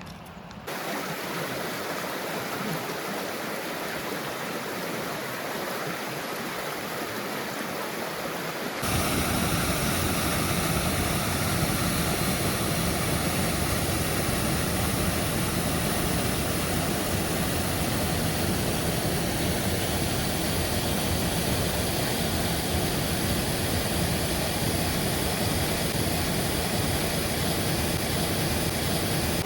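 Waterfall and stream in spate after heavy rain, rushing steadily. The sound steps up slightly about a second in, then jumps louder and fuller about nine seconds in.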